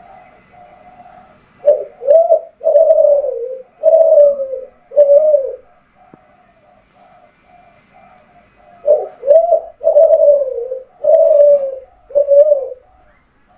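Kelantan derkuku (spotted dove) cooing: two phrases of about five low coos each, a few seconds apart, the longer notes falling at the end. Fainter repeated cooing carries on underneath between the phrases.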